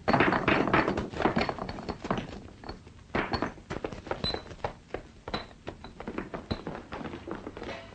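A rapid, irregular series of knocks and thuds, loudest in the first second or so, then continuing more softly.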